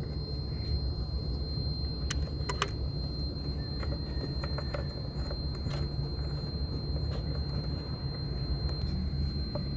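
Steady low rumble with a thin high whine, broken by a few sharp light clicks about two seconds in and again near six seconds.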